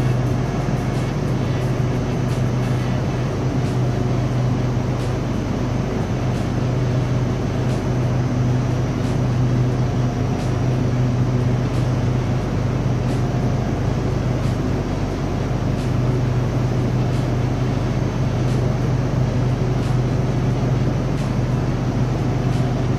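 SRT Red Line electric commuter train running, heard from inside the carriage: a steady low rumble and hum of the train in motion, with faint light ticks recurring throughout.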